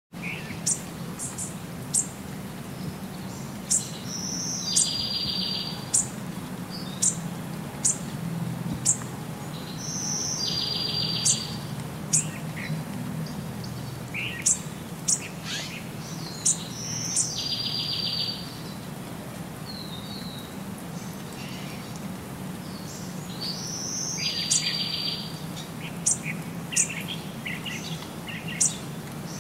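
Birds chirping and singing: sharp high chirps throughout, with a repeated rapid trill about every six seconds, over a steady low hum.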